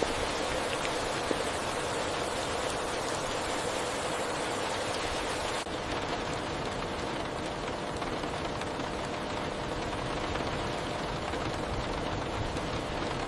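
Heavy rain falling steadily on a car, a dense, even hiss with no distinct drops standing out. About halfway through, the highest part of the hiss thins a little.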